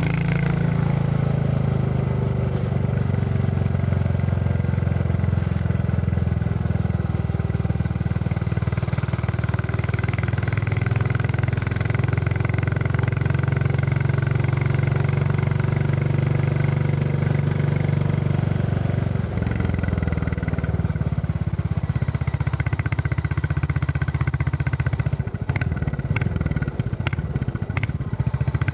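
Royal Enfield Classic 350's single-cylinder engine running steadily while riding. The engine note changes about two-thirds of the way through, and a few sharp knocks come near the end.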